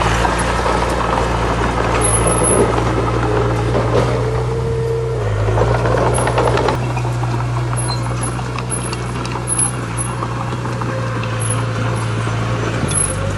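Heavy diesel earthmoving machinery running steadily under load, with clattering and grinding noise over the engine drone. A brief whine comes in about four seconds in.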